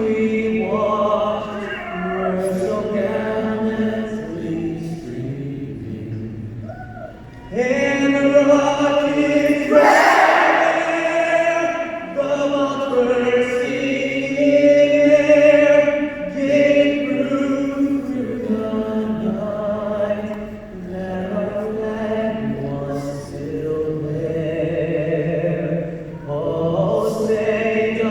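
Male singer performing a national anthem, holding long notes.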